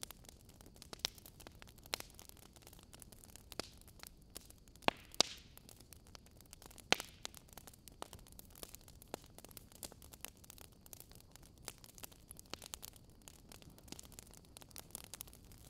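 Wood fire in a fireplace crackling, with irregular sharp pops and snaps over a faint steady hiss.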